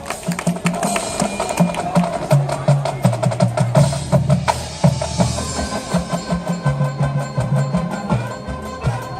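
High school marching band playing a percussion-driven passage: the drumline plays fast strokes with pitched bass drums and snares. Held notes from the rest of the band join about halfway through.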